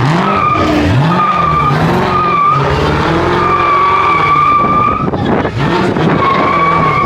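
A car's tires squealing in several stretches, the longest about a second and a half, while its engine revs up and down hard.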